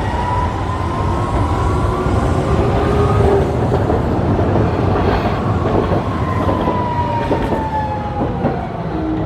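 Hiroshima Electric Railway street trams in motion: a motor whine rising in pitch as a tram speeds up over the first few seconds, then knocks of wheels over rail joints and a whine falling in pitch as a tram slows, over a steady low rumble.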